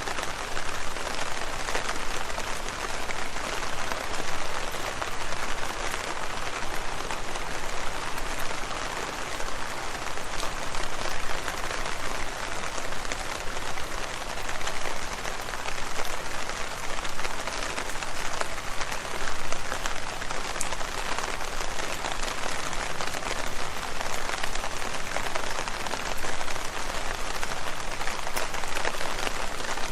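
Steady rain falling on leaves, a dense even patter of drops with individual drops ticking through it.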